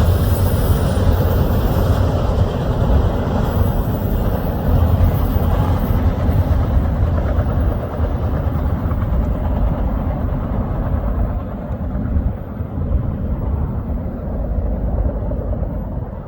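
Norfolk Southern freight train rolling past with a steady low rumble. The higher hiss dies away from about six seconds in while the rumble carries on.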